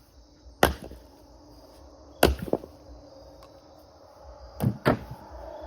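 Firewood being split by hand with a swung splitting tool: three sharp strikes about a second and a half apart, the second and third each followed quickly by a second knock.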